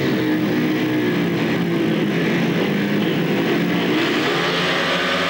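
Four speedway motorcycles' 500 cc single-cylinder methanol engines revving together at the starting gate, their pitch wavering up and down as the riders blip the throttles.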